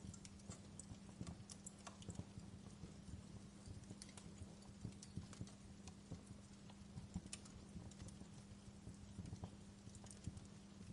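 Fireplace crackling faintly: irregular small pops and snaps over a low steady rumble.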